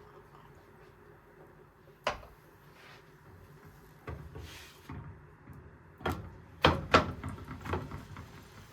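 A handful of sharp knocks and clacks of kitchen things being handled, such as cupboard doors or dishes being set down: one about two seconds in, another near four seconds, then a closer run of them near the end, the loudest two in quick succession about seven seconds in.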